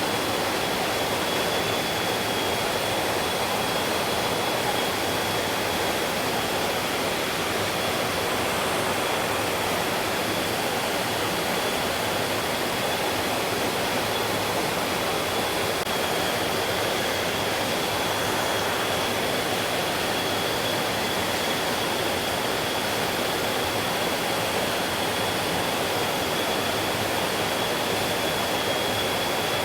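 Mountain stream water rushing and splashing in a steady, even roar, with a thin steady high-pitched tone running beneath it.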